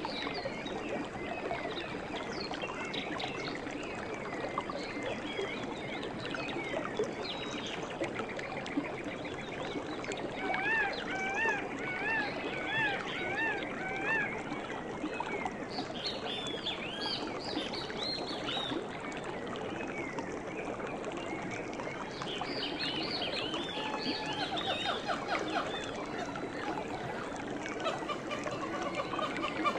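Jungle birds calling over a steady hiss. In the middle one bird gives a run of about eight repeated arched notes, about two a second, and there are more bursts of chirps later.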